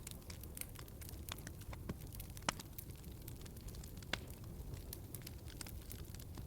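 Wood fire crackling in a fireplace: a steady low rumble with irregular sharp pops and snaps, the loudest about two and a half seconds in and another about four seconds in.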